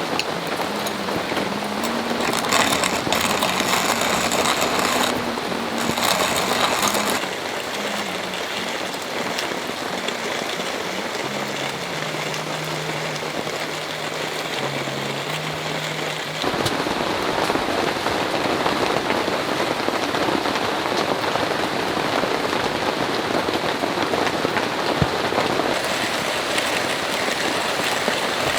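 Heavy rain falling steadily. A soft, low melody runs under it for the first half or so, then the sound cuts abruptly about two-thirds of the way through to a louder, denser stretch of rain.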